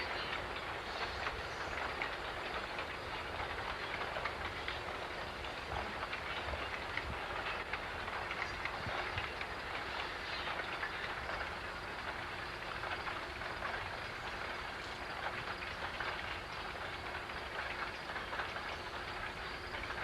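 Freight train rolling steadily by, its wheels clicking over the rails.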